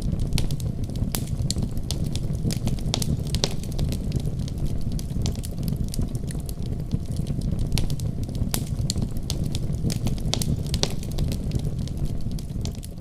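Wood fire in a fireplace crackling, with sharp irregular pops over a steady low rumble; the sound begins to fade out near the end.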